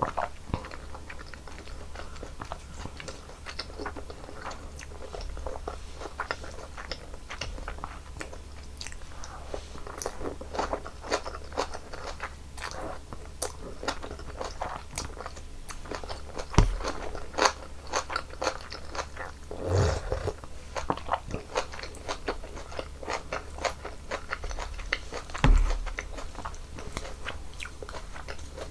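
Close-miked eating sounds: steady chewing with wet, crunchy clicks, from a mouthful of janchi guksu noodles in hot broth. Three louder dull thumps stand out, about halfway through, a few seconds later, and near the end.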